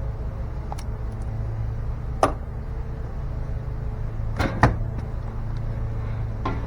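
A steady low mechanical hum from a running motor, with a few sharp knocks or taps: one about a second in, one about two seconds in, a louder pair around the middle, and another near the end.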